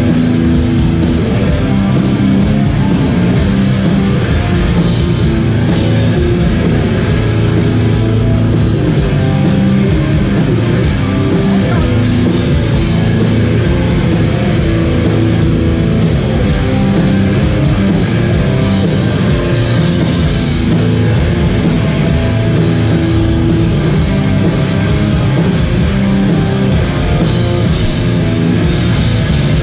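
Hardcore band playing live at full volume: distorted electric guitars, bass and drum kit.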